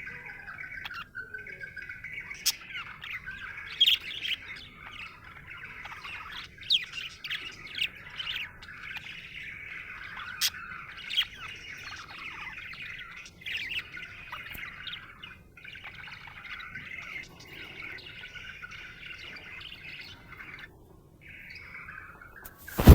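Budgerigar warbling and chattering continuously, with many sharp high chirps and clicks scattered through. A brief loud burst of noise cuts in at the very end.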